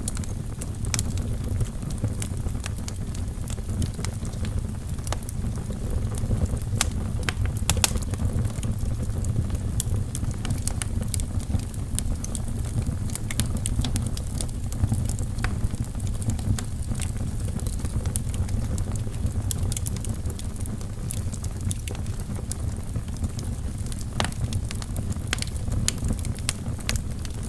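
Wood fire burning in a fireplace: a steady low rumble of the flames with frequent sharp crackles and pops from the burning logs, a denser run of pops about eight seconds in.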